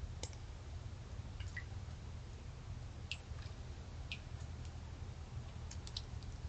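Handling noise from a camera worn by a cat: a steady low rumble with scattered light clicks and ticks as the camera moves.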